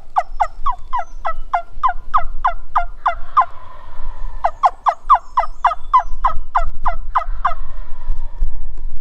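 Two long runs of turkey yelps: quick, evenly spaced notes, each dropping in pitch, about three or four a second, with a pause of about a second between the runs. A low rumble runs underneath.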